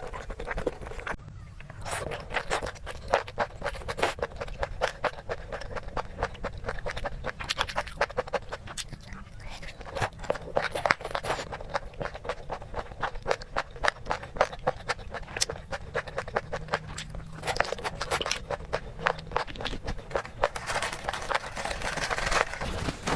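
Close-miked chewing and crunching of food, with many quick irregular crackles and clicks.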